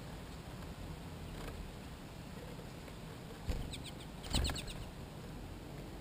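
Small songbirds at a seed feeder: two knocks about three and a half and four and a half seconds in, and around them a quick run of short, high chirps, about eight a second.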